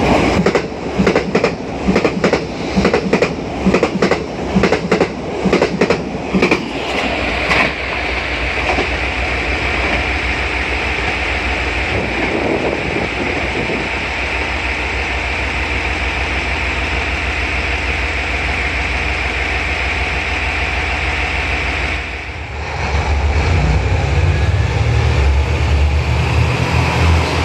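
Train running through a station, its wheels clacking rhythmically over rail joints for the first several seconds, then a steady running hum. Near the end a louder low engine rumble sets in.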